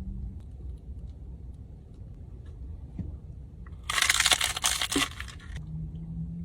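Loud, close-up crunching of crispy food being bitten and chewed, a burst of about a second and a half a little past the middle.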